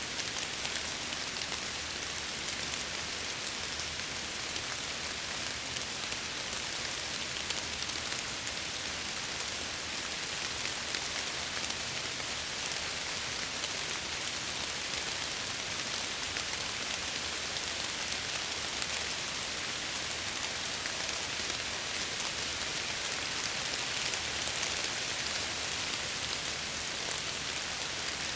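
Steady rain against window glass: an even hiss of many small drop hits, mostly high in pitch, with no thunder or other events.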